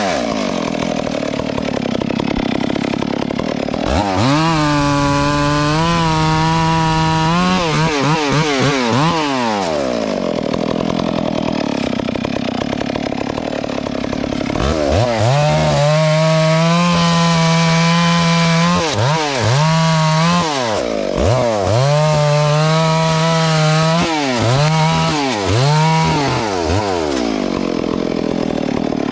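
Two-stroke chainsaw running loud, its throttle opened and released again and again so the whine rises, holds high for a second or two and falls away. A long high-revving stretch comes about four seconds in, and a run of shorter rev-ups follows in the second half, with a rougher, steadier stretch of running between.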